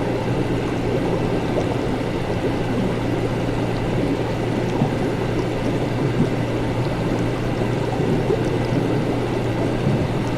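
Laboratory ambience: liquid bubbling steadily over a constant low hum.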